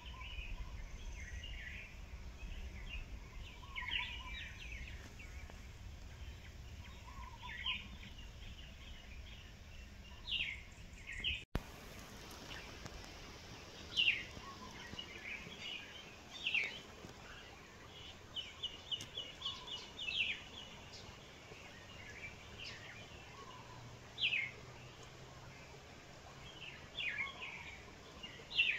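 Small birds calling: short chirps and quick falling whistled notes, one every second or two, with a fast run of repeated notes about two-thirds of the way through.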